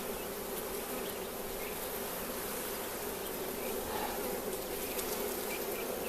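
A colony of honeybees in an opened hive humming steadily, a dense, even drone from the many bees on the frames.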